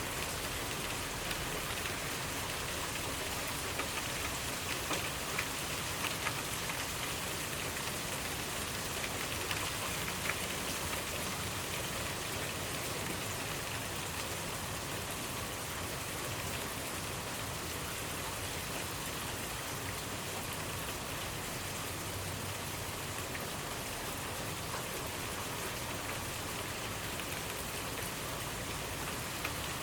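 Steady rainfall, with drops pattering on a surface and a few louder individual drops standing out in the first ten seconds.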